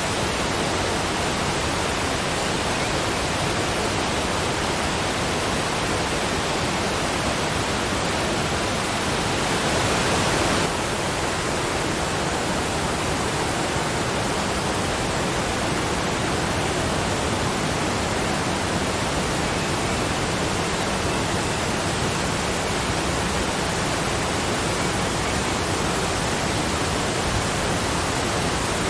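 Waterfall: a steady rush of falling water. About a third of the way in, it gets slightly louder and brighter for about a second, then cuts back suddenly.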